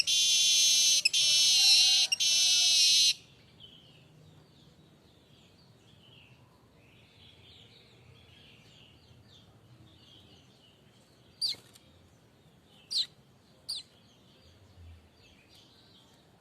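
Streaked weaver (manyar kembang) singing a loud, buzzy, wheezing phrase that cuts off abruptly about three seconds in. Then comes a quiet stretch with faint chirping, and three short, sharp, falling call notes about two-thirds of the way through.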